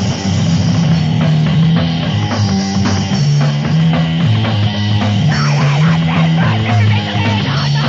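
Loud, distorted hardcore punk music: a heavy bass and guitar riff that changes note every half-second or so, over driving drums.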